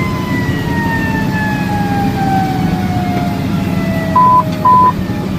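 Fire engine siren in a slow wail, its pitch falling steadily after peaking, over the truck's steady engine rumble. Two short, even beeps sound about four seconds in.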